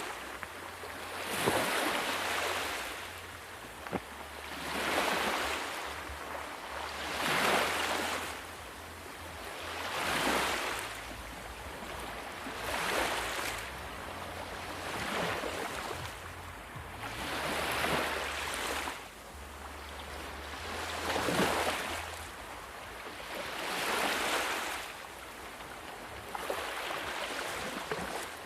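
Sea waves washing in one after another, each surge of surf rising and falling away about every two and a half to three seconds, over a steady low rumble.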